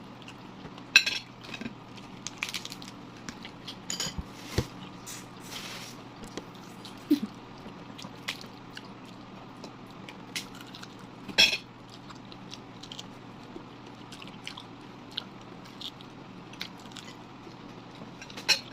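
Eating at a table: chewing and biting, with scattered sharp clicks of cutlery and dishes. The loudest clicks come about a second in, around the middle and near the end.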